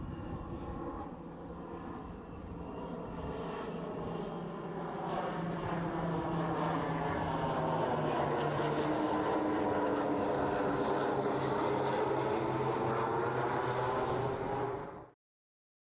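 Conair S-2FT Turbo Firecat's twin Pratt & Whitney Canada PT6A-67AF turboprops, a steady propeller hum that grows louder as the aircraft comes closer and drops in pitch as it passes. The sound cuts off suddenly near the end.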